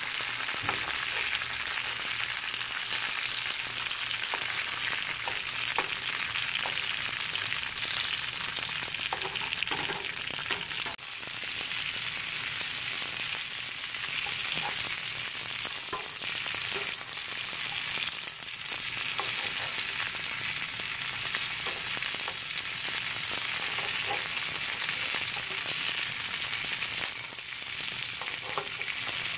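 Sesame-crusted tuna strips sizzling steadily in oil in a hot nonstick frying pan as they sear. Occasional light clicks of metal tongs against the pan as the pieces are turned.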